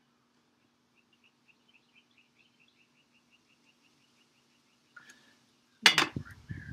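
A bird chirps faintly in a quick, even series of short high notes, about five a second, for several seconds. Near the end a loud sharp click and a few lighter knocks come from the paintbrush being worked against the metal watercolor paint tin.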